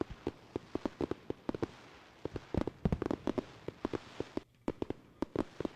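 Fireworks going off: a fast, irregular run of sharp pops and crackles, several a second.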